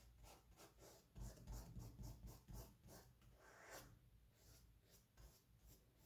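Faint scratching of a paintbrush stroking paint onto canvas, about three strokes a second, with a few soft low bumps between one and three seconds in.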